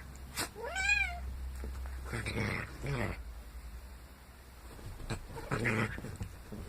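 Domestic cat meowing once, a short call that rises and falls in pitch, about a second in, followed by two harsher, noisier cat cries.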